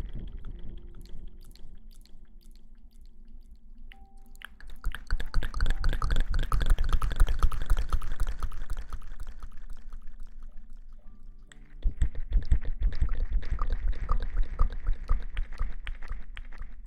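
Close-miked ASMR hair washing: lathered hair being scrubbed, a dense crackling of many small pops. It comes in two long stretches after a quieter start, with a brief pause in the middle.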